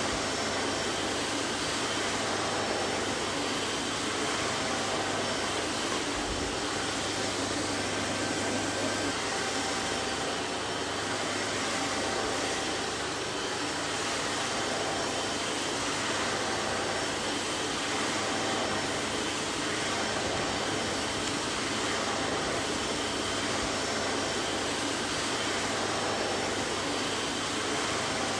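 Vacuum cleaner running steadily: an even rushing hiss with a faint motor whine and low hum, unchanging throughout.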